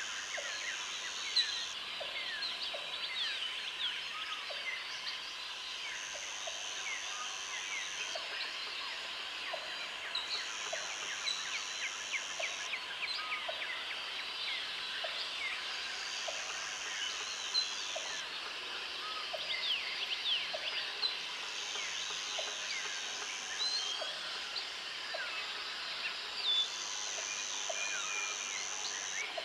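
Dense tropical forest ambience: many birds chirping and calling over one another. A high insect trill lasts about two seconds and recurs roughly every four to five seconds, and a soft tick repeats just under once a second.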